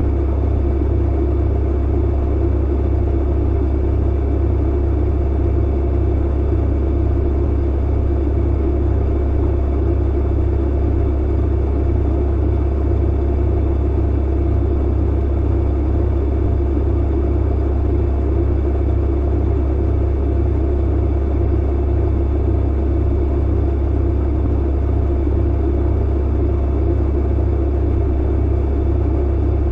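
Clothes dryer running: a steady deep hum, with a fainter whir in the middle pitches above it.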